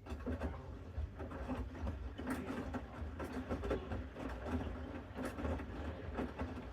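Bosch Series 6 front-loading washing machine tumbling its drum in the main wash: a low motor rumble with an irregular clatter and knocking from the load and water turning in the drum, starting up right at the beginning.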